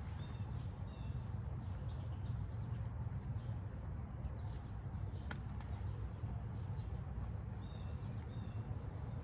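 Garden ambience under a steady low rumble: a bird chirps briefly a few times about half a second in and again near the end, and there is one sharp click about five seconds in.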